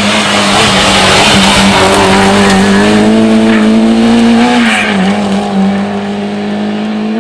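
Rally car engine running hard at high revs, its pitch held nearly steady. The pitch dips briefly about five seconds in and then steadies again, and the sound eases slightly toward the end.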